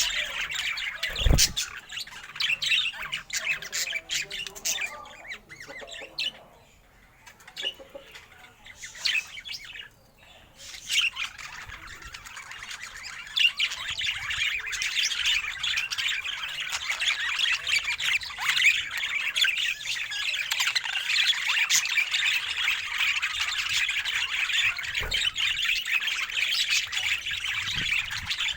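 Budgerigar chattering and warbling in a dense, continuous stream. It thins out for a few seconds early on, then chatters without a break. A short low thump comes about a second in.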